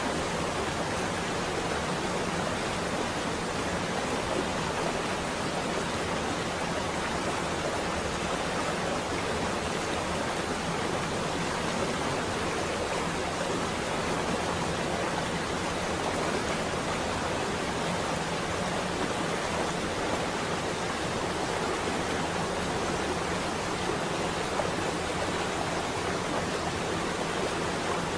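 Steady rain, an even hiss that does not change, with no thunder.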